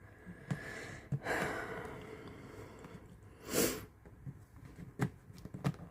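A sharp breath out through the nose about three and a half seconds in, among a few small clicks and taps of hard cast-resin pieces being handled and fitted together.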